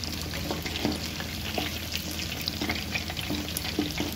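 Flour-coated chicken pieces sizzling and crackling in hot oil, with many small pops. A utensil scrapes now and then as the pieces are turned over in the pan.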